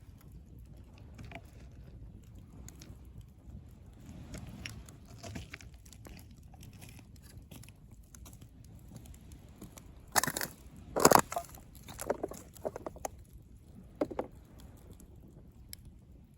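Driftwood campfire crackling, with scattered small ticks and a cluster of loud sharp pops and snaps about ten to fourteen seconds in, the loudest around ten and eleven seconds, over a low steady rumble.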